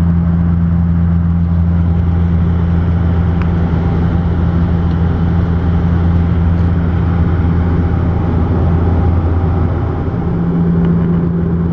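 A car running at a steady speed: an even, loud low drone that holds the same pitch throughout.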